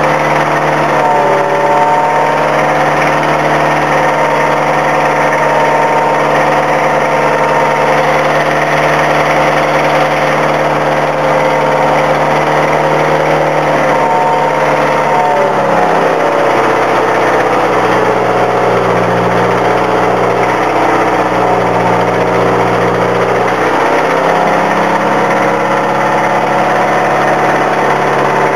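An engine running steadily. Its pitch drops about halfway through and rises again a few seconds before the end.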